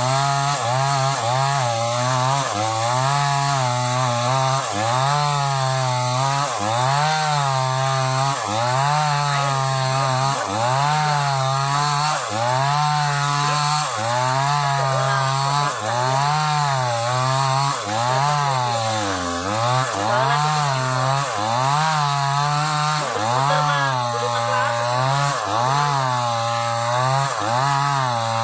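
Sumura CS6500S two-stroke chainsaw ripping old wood under heavy load. Its engine pitch sags and recovers in waves about once a second as the chain bites, a strained, labouring sound.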